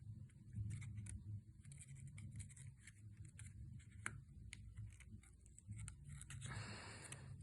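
Origami paper being handled and refolded by hand: faint, scattered crinkles and small taps of the creasing paper, with a longer soft hiss near the end.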